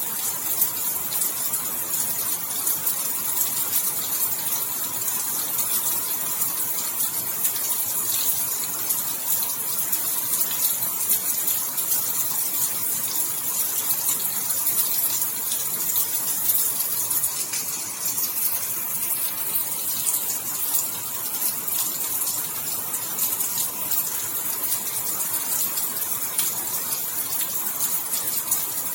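Steady heavy rain falling: a dense, even hiss scattered with countless fine drop ticks, with no let-up.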